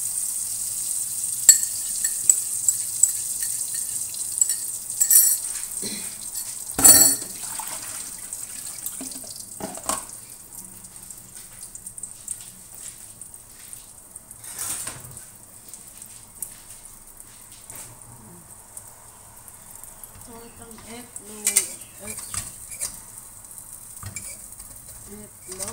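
Beaten egg sizzling as it is poured over chopped green peppers in a hot frying pan, with sharp clinks and knocks from the ceramic bowl and kitchen utensils, the loudest knock about seven seconds in. The sizzle dies down to a quiet hiss after about eight seconds, with a few more scattered knocks.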